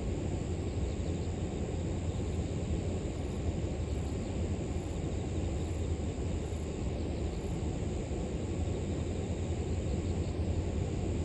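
Steady low rush of flowing river water, with a thin, continuous high trill of grass insects such as crickets above it.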